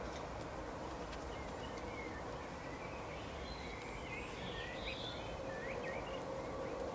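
Faint, scattered chirps of small birds over a steady background hiss and low hum.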